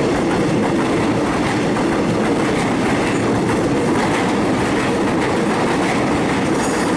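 Suburban electric train passing through the station without stopping: a steady, loud rumble of wheels on the rails that holds even throughout.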